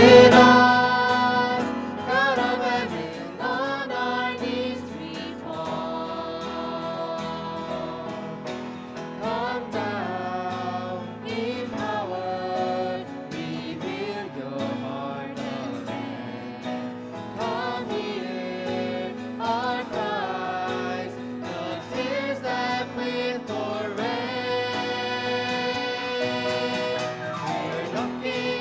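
A worship song performed with singing and instrumental accompaniment. It is loudest at the very start and eases off within the first two seconds.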